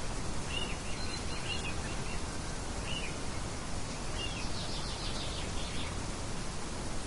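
Steady rush of wind, with small birds chirping in short calls through the first few seconds and then a quick trill past the middle.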